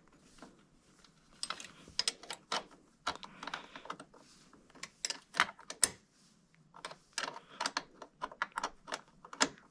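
Irregular metallic clicks and clinks of a hand wrench being fitted and turned on a motorcycle engine mount bolt, coming in short clusters.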